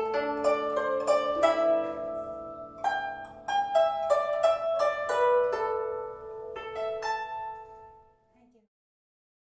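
Guzheng playing a melody in separate plucked notes that ring and decay; the phrase slows and the last notes die away about eight seconds in, ending the piece in silence.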